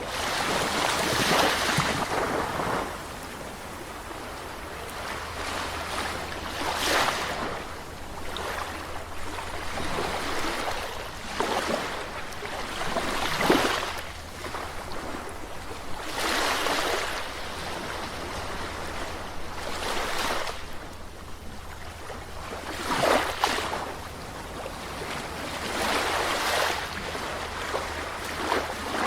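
Calm sea waves breaking and washing onto a shore, each wave a rush of surf every few seconds over a steady wash of water.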